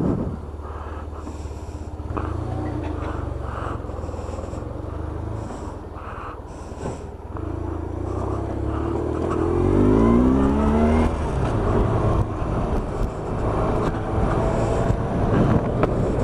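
BMW R1100RS motorcycle's boxer-twin engine running at a steady low idle. About eight seconds in, the revs climb as the bike accelerates and the engine gets much louder.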